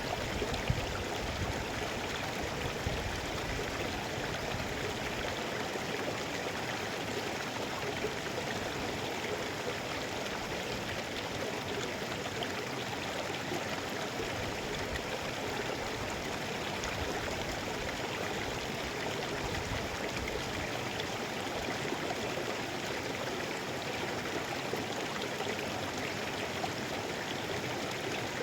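Mountain river rushing steadily over rocks, a dense even splashing and burbling, with a few low thumps in the first second.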